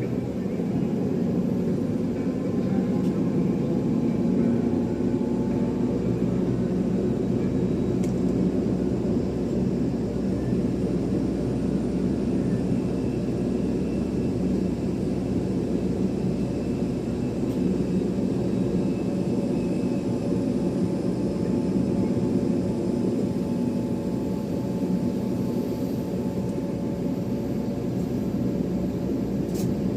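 Jet airliner engines running steadily: a continuous low rumble with a faint steady whine above it, holding level throughout.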